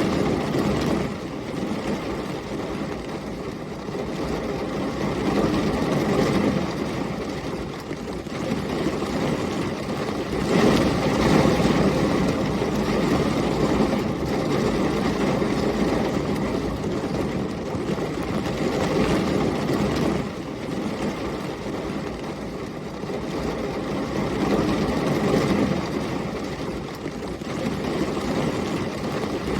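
Thunderstorm ambience: heavy rain and storm wind as a dense, continuous rush, with low rumbling surges that swell and ease every few seconds.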